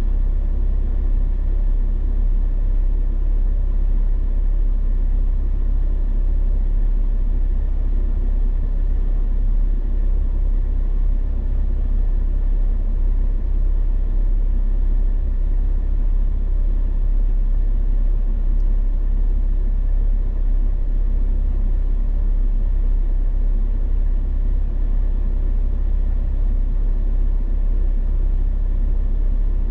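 Off-road vehicle engine running steadily with a low, even rumble while driving in deep snow.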